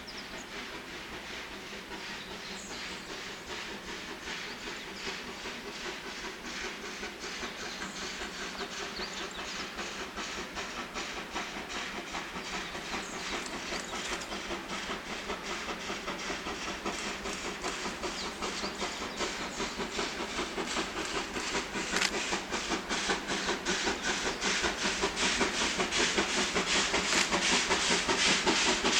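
C11 steam tank locomotive working a train, its exhaust beating in quick, even chuffs that grow steadily louder as it approaches.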